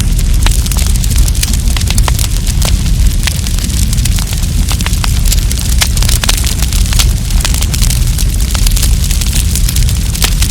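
Wood campfire crackling, with many sharp pops and snaps over a steady low rumble.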